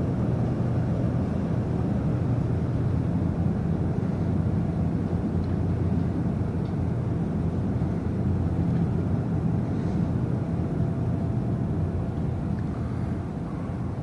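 Steady low rumble aboard the cruise ship Mein Schiff 4 as it docks, easing a little near the end.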